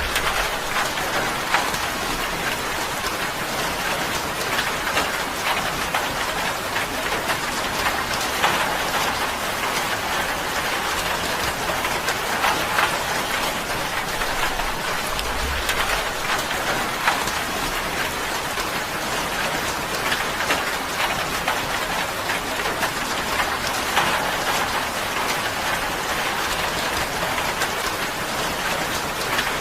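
Steady rain drumming on a tin roof, a dense even patter with many small drop ticks.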